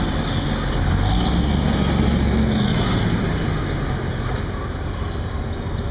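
Street traffic: a motor vehicle's low rumble that eases off about two and a half seconds in, over steady outdoor noise.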